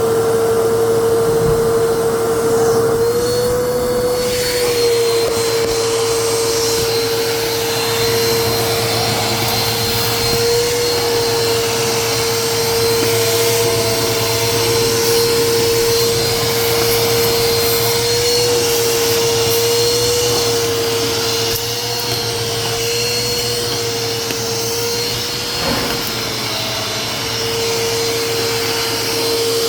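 Vacuum cleaner running steadily, its motor whine holding one pitch with small wobbles. A thinner, higher whine joins about three seconds in.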